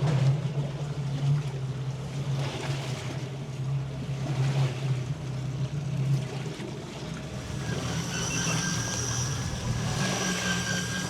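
Small fishing boat's motor humming steadily, with wind and water noise. A higher, steady whine joins in about seven seconds in.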